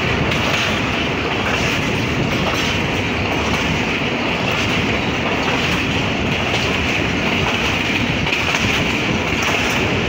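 Mehran Express passenger train in motion: a steady rumble and rattle of the wheels on the rails.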